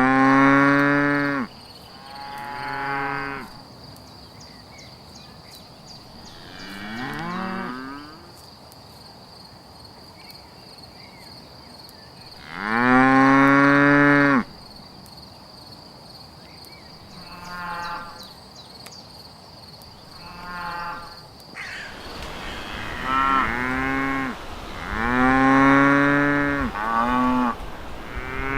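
Holstein cattle mooing: a series of about ten long, low moos, some louder and some fainter, coming closer together near the end.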